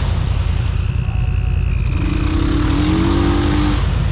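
Side-by-side UTV engine running with a constant low rumble, its pitch rising and holding for a moment about two seconds in.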